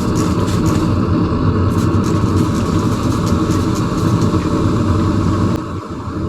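Forge running with a steady roar while the metal heats. It becomes quieter and duller about five and a half seconds in.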